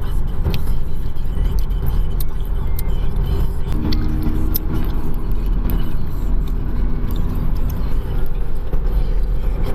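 A car driving along a road: a steady low rumble of engine and tyres, with light clicks and rattles now and then.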